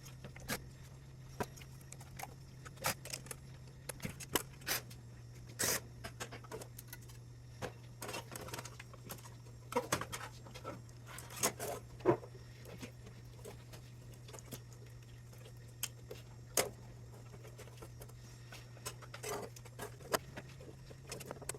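Scattered clicks and light taps of hand tools and screws as the top cover plate of a welding power supply is taken off, irregular and a few each second at most, over a steady low hum.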